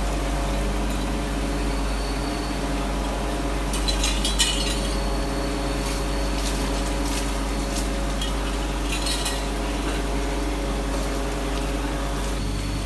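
Workshop machinery running with a steady hum, with a few sharp metallic clinks of metal parts about four seconds in and again near nine seconds.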